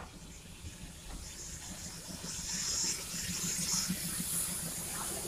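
Running noise of a slow-moving passenger train: a steady hiss that grows louder, with a low pulsing hum underneath from about two seconds in.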